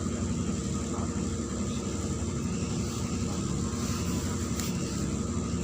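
Neman city bus under way, its engine droning steadily with road rumble, heard from inside the passenger cabin.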